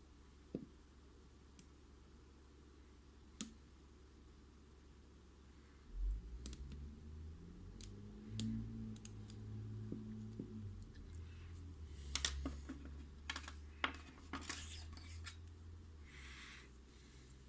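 Small metallic clicks and taps of lock picks working in a Mul-T-Lock MT5+ cylinder, scattered at first, then with a low rumble of the lock being handled from about six seconds in and a cluster of sharper clicks and a brief scratch near the end.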